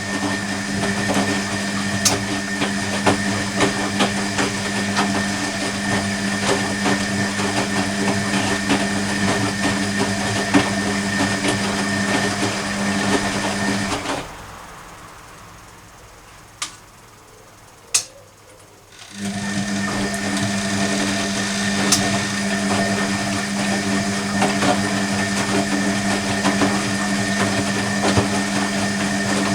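Hoover Electronic A3172 washing machine's motor turning the drum on a cottons wash, a steady hum with a high whine. It stops about halfway through for some five seconds, with two clicks in the pause, then starts again: the stop-start tumble of the wash action.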